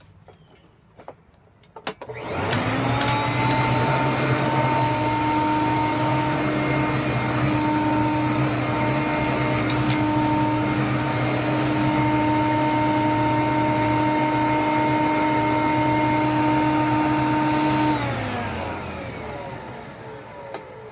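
Hoover Conquest upright vacuum cleaner switched on for a test run after a bag change. A few clicks, then about two seconds in the motor starts and spins up to a steady whining run. Near the end it is switched off and winds down.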